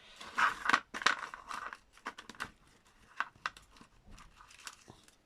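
Paper crinkling and rustling as craft sheets are handled, densest in the first couple of seconds, then scattered light rustles and taps.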